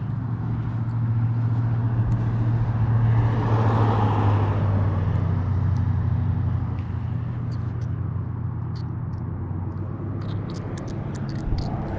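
A steady low engine hum, growing louder around four seconds in and then easing off, like a vehicle passing.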